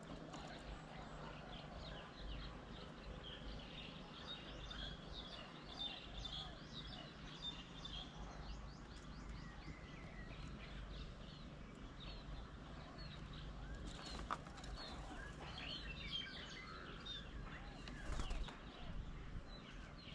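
Birds at an outdoor bird table chirping and calling: a steady chatter of many short, quick notes, with two short bursts of noise, the louder near the end.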